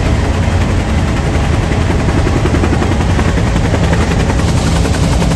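Bell UH-1 Huey helicopter in flight: its turboshaft engine and rotor give a loud, steady rumble with a rapid, even thumping of the main rotor blades.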